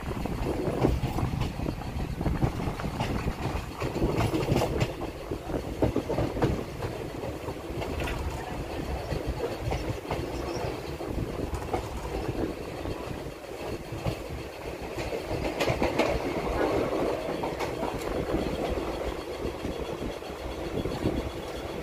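Express train running on the rails, heard from on board: a steady rumble of the coach wheels with repeated clicks as they pass over rail joints.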